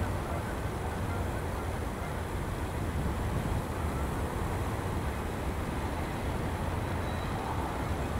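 Double-stack intermodal container train rolling past: a steady low rumble of the well cars' wheels on the rails.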